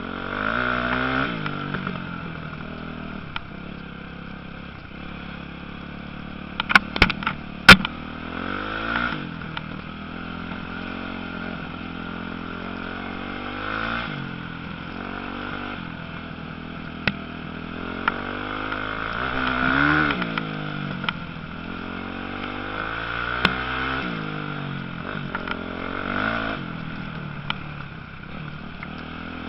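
Motocross motorcycle engines revving up and dropping back again and again as bikes race around the track, over a steady background engine drone. A few sharp, loud knocks come about seven seconds in.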